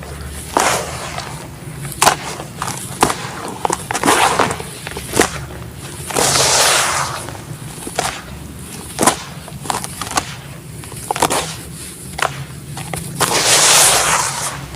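Chunks of black sand cement cracking and crumbling apart, with sharp snaps every second or two and two longer gritty crumbling rushes, one in the middle and one near the end.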